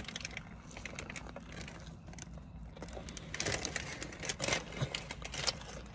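Close-up eating sounds: chewing with scattered small clicks and smacks, and light rustling of the food and its wrapping, over a steady low hum.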